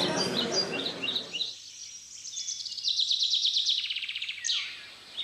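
Small songbirds chirping in short high calls, with a fast trill of rapidly repeated notes in the middle and a falling whistled slur near the end.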